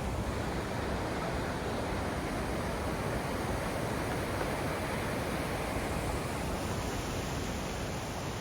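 Steady rushing roar of falling water from the Iguazu waterfalls.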